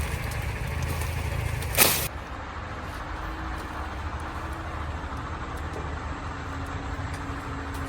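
A single sharp chop about two seconds in, from a blade cutting through a sugarcane stalk, over a steady low rumble.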